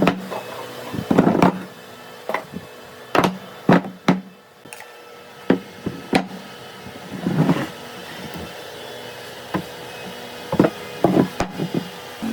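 Irregular knocks and taps of hand work on wood, some sharp and some duller, spaced unevenly with pauses between, over a steady faint hum.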